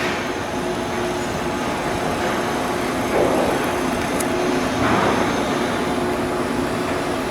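Steady machinery noise with a faint hum, swelling briefly twice.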